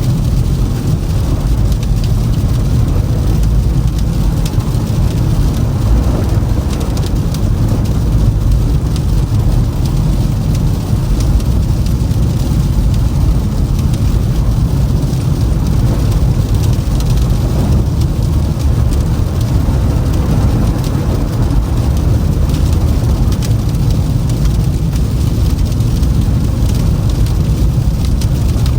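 Toyota Camry driving on a snowy road: a steady low rumble of tyres and engine, with faint irregular ticks above it.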